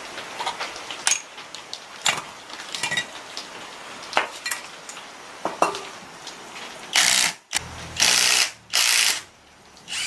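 Metal tools and engine parts clinking and knocking irregularly during diesel engine repair work, followed by three loud hissing blasts, each about half a second long, near the end.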